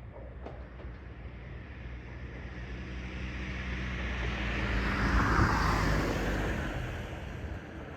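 A vehicle passing close by: a rushing noise with a low hum that swells to its loudest about five and a half seconds in, then fades.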